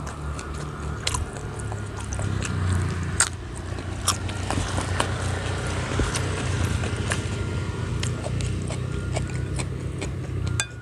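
Close-miked chewing and mouth clicks of a person eating rice and side dishes, many small sharp sounds at irregular intervals. A steady low rumble runs underneath and cuts off near the end.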